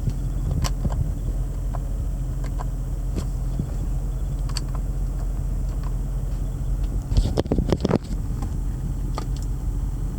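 2006 Range Rover Sport Supercharged's supercharged V8 idling steadily while warming up from a cold start. Scattered light clicks throughout, and a short cluster of louder knocks about seven seconds in.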